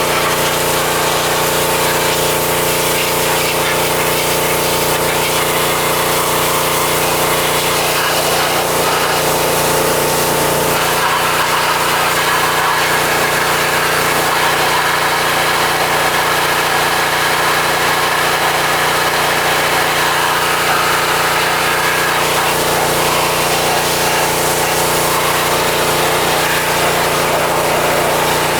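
Pressure washer running steadily, a constant hum under the hiss of the water spray.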